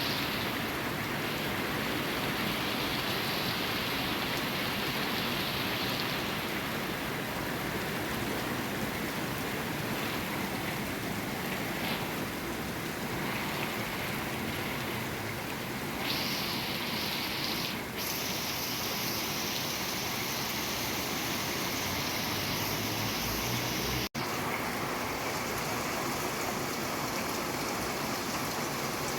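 Steady rain falling, an even hiss of drops with a very brief break about 24 seconds in.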